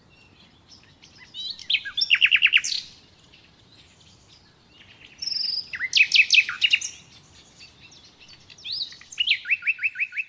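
Songbird singing in three short phrases a few seconds apart. Each phrase is a quick run of repeated high, down-slurred notes.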